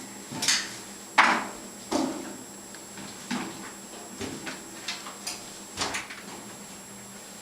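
A string of irregular knocks and thuds, the loudest about a second in, over a faint steady hum.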